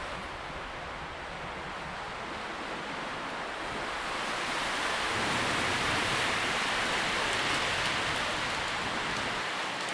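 Wind rustling through tree leaves, a steady hiss that swells about halfway through and eases off near the end.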